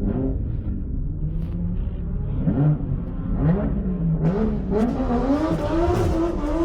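Car engine revving up and down several times, then holding a steady pitch near the end.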